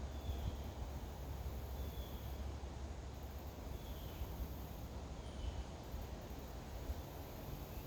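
Natural outdoor ambience: a high insect buzz that comes and goes in stretches of a second or two, and a bird's short, faint chirps every second or two. Underneath is a steady low rumble.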